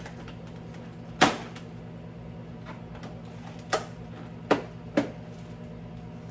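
Four sharp knocks and clinks as containers of beer are set down on refrigerator shelves. The first, about a second in, is the loudest; the other three come close together near the end. A steady low hum runs underneath.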